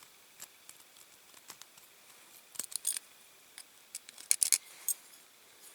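Small hand wire brush scratching stubborn leftover paint off a diecast metal model car body, in short scattered scrubbing strokes, with a brief flurry a little before halfway and a louder one about three-quarters through.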